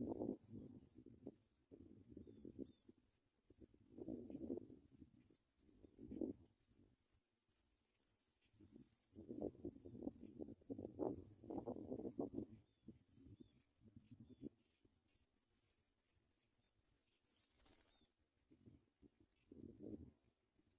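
Cricket chirping in a steady rapid series of short, high chirps, about four a second, that stops shortly before the end. Patches of low rumbling noise come and go beneath it.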